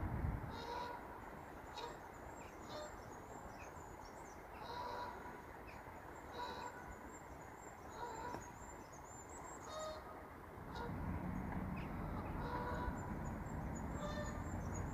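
Birds calling around the water: a string of short calls, one every second or two, with a thin high twittering running over them. A low rumble comes in about two-thirds of the way through.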